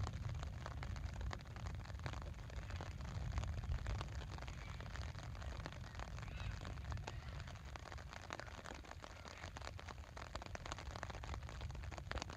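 Rain during a night thunderstorm: many separate sharp drop hits close to the microphone over a steady low rumble.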